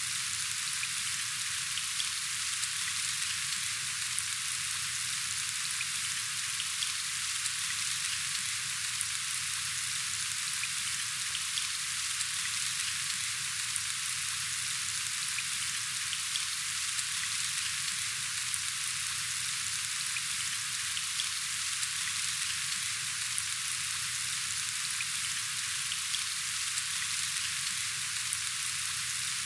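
Steady rain falling: a constant hiss dotted with faint ticks of individual drops.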